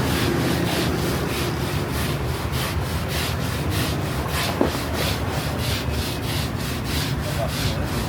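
Rhythmic back-and-forth sanding strokes, about four a second, over a steady low hum.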